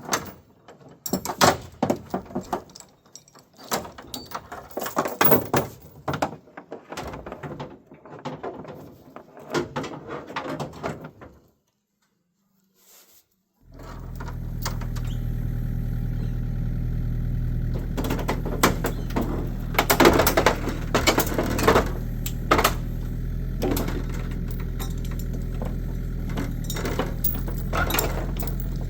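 Irregular metal clanks and knocks for the first ten seconds or so. Then, after a short quiet gap, an excavator's engine starts running steadily, with sharp metallic bangs and clanks over it as it pulls on the crushed car body.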